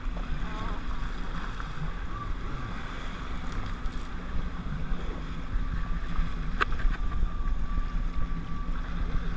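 Jet ski engine running steadily at low speed: a low drone with a thin whine over it, and wind buffeting the microphone. A single sharp click about two-thirds of the way through.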